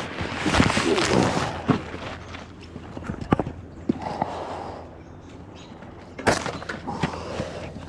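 Scattered knocks and clicks with rustling, busiest in the first second or so and again with a sharp knock a little after six seconds.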